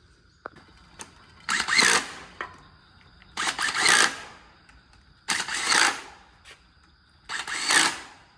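Wrench tightening the cylinder head bolts on a 5.3 V8 as they are torqued to spec: four short bursts, each under a second, about two seconds apart.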